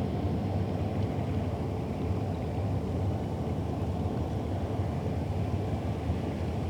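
Steady low rumble of a boat's engine running on the river, with a faint steady hum above it.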